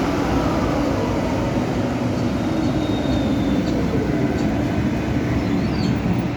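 Antwerp tram running on its rails: a steady rumble of wheels and motors, with a faint high whine in the middle.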